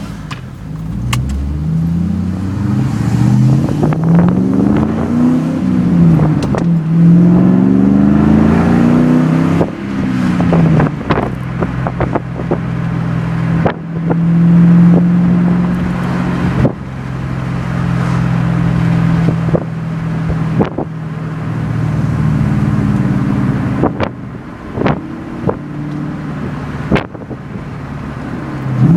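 Ford Mustang GT's 4.6-litre V8 through an off-road H-pipe, Magnaflow Magnapack mid-mounted mufflers and Pypes Bomb tips, heard from inside the car with the windows down. It revs up through several gear changes over the first ten seconds or so, then cruises at a steadier note, with wind buffeting the microphone.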